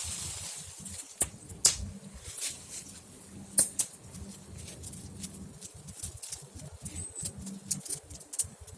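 Campfire crackling, with a steady run of sharp snaps and a few louder pops from burning wood.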